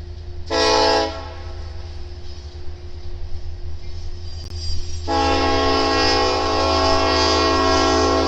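Locomotive air horn: a short blast, then a long blast starting about five seconds in, over the steady low rumble of a passing train.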